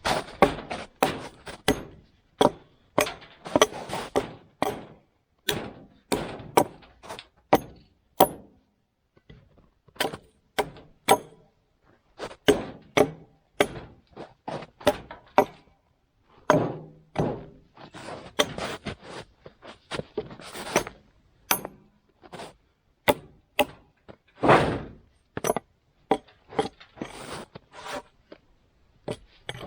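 Axe or hatchet chopping branch stubs off a pole: a run of sharp strokes, one or two a second, with a short pause about a third of the way through.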